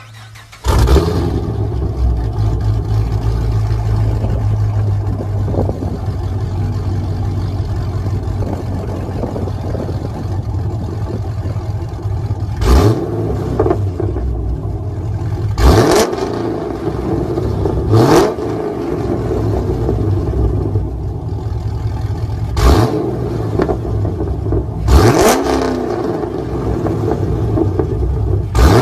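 Holden Commodore's 6.0-litre LS2 V8 fires up about a second in and settles into a loud, lumpy idle rumble. About six short, sharp throttle blips follow in the second half, each a quick rise in revs that falls back to idle.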